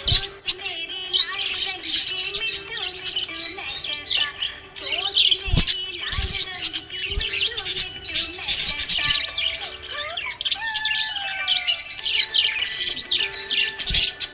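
Pet budgerigars chirping and chattering continuously in quick, high chirps, over background music with a held low note. A few low thumps are heard near the start, around the middle and near the end.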